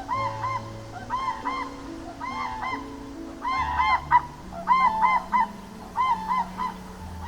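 Short honking bird calls in quick pairs and triplets, repeated every second or so, over background music with held low notes.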